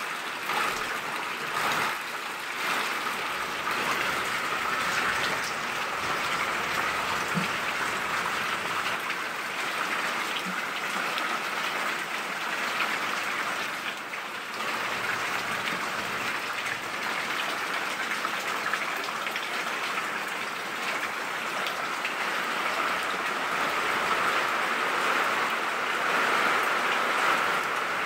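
Heavy rain pouring steadily, splashing onto a wet concrete yard covered with standing water.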